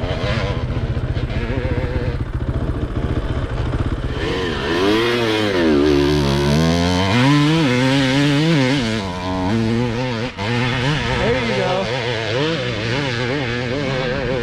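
Dirt bike engine working hard on a steep hill climb, the revs surging up and down over and over as the rider works the throttle. It cuts out for an instant about ten seconds in, then picks up again.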